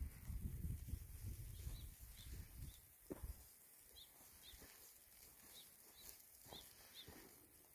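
Faint rural outdoor ambience with small birds giving short, high chirps every second or so. A low rumbling noise fills the first three seconds, then it goes quieter.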